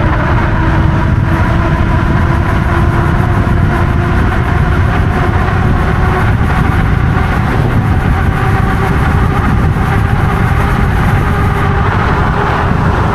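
Wind rushing over the microphone and tyre noise as an e-bike coasts fast down a long hill, with a steady hum underneath.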